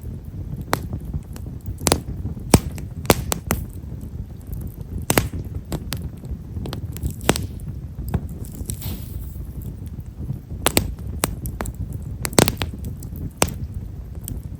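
Wood fire of Japanese stewartia (himeshara) firewood crackling: fine, quiet pops at irregular intervals over the low rustle of the flames, with a brief hiss about eight seconds in.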